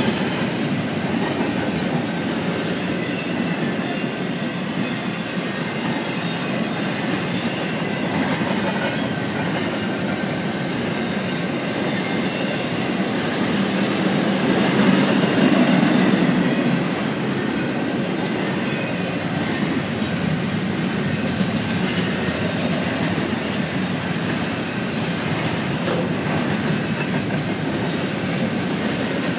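Double-stack container freight cars rolling past at close range: a steady rumble of wheels on rail with the clickety-clack of wheels over rail joints. The sound swells louder about halfway through.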